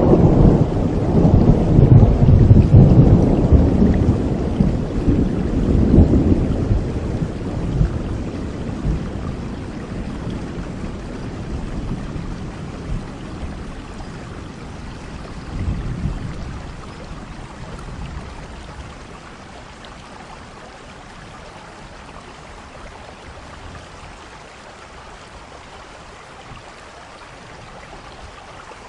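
Thunder rolling over steady rain: a low rumble loudest in the first several seconds, dying away over about fifteen seconds, with a brief smaller swell midway, then the even hiss of rain alone.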